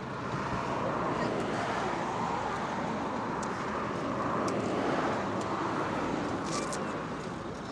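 Aircraft passing over: a broad engine noise that swells in the first second, holds, and fades near the end.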